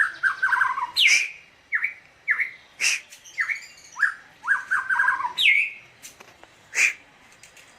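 Kept songbirds singing and chirping: quick runs of short whistled notes that slide in pitch, the same cluster of notes repeated twice, with a few louder falling whistles and two harsh, sharp calls. The calling stops about seven seconds in.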